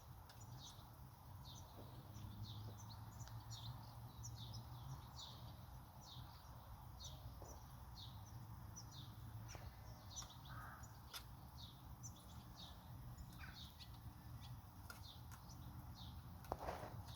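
Faint outdoor birdsong: small birds giving short, high, down-slurred chirps over and over, over a steady low rumble. A single louder, harsher call comes near the end.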